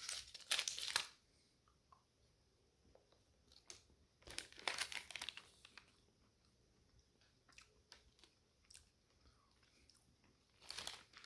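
Peanut butter cup wrapper crinkling in short bursts: at the start, again about four to six seconds in, and near the end, with faint scattered clicks between.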